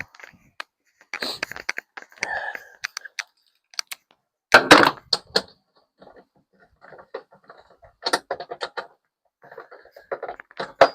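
Hand tools clicking and clanking against metal car parts, with a louder clatter about halfway through and runs of quick clicks near the end.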